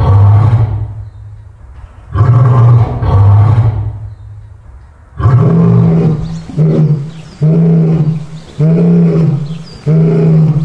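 Lion roaring: two long, deep roars in the first four seconds, then a run of about five shorter, higher grunting calls roughly a second apart.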